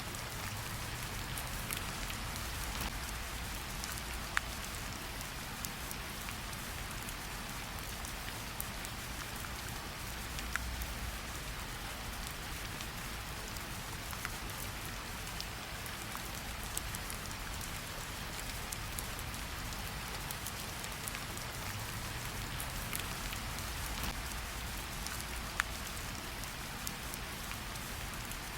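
Steady gentle rain pattering on tree leaves, with scattered individual drops dripping off the leaves, a few of them louder than the rest.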